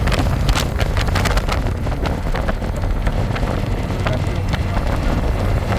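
Harley-Davidson Electra Glide's V-twin engine running steadily on the road, with wind buffeting the microphone and frequent sharp crackles from it.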